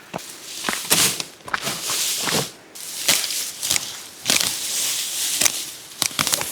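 Tall grass being cut and gathered: an irregular run of rustling, tearing strokes.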